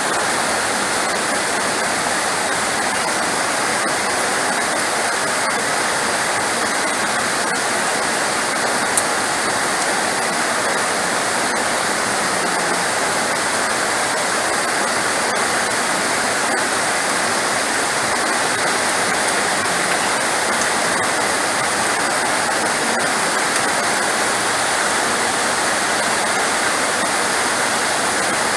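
Heavy rain falling as a steady, even rush of noise with no breaks or rises.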